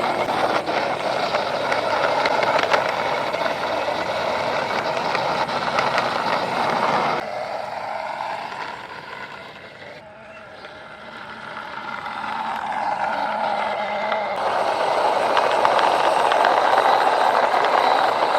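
Heavy vehicle engine sound, a steady rumbling run that drops suddenly about a third of the way in, fades low in the middle and swells back up toward the end.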